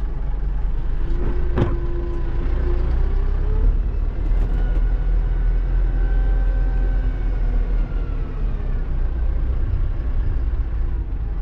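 Tractor engine running steadily while driving, with a single sharp knock about a second and a half in and a brief whine rising in pitch just after it.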